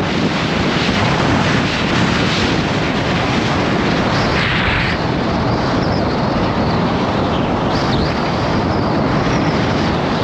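Loud, steady wind rushing and buffeting over the microphone while riding at speed, with a brief harsher gust about four to five seconds in.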